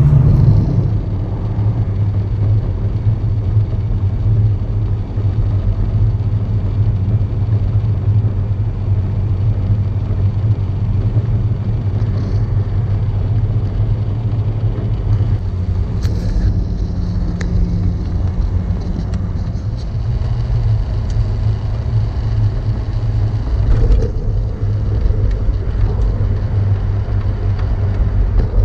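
Steady low rumble of a vehicle heard from inside its cab, with a few faint clicks partway through.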